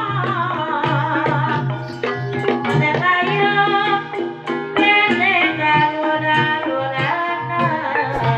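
Javanese gamelan accompaniment for an ebeg horse dance: kendang hand-drum strokes keep a steady rhythm under a wavering sung melody and sustained metallophone notes.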